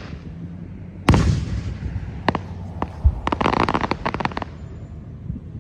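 Fireworks going off: a loud bang about a second in, a few sharp single cracks, then a rapid run of crackling for about a second.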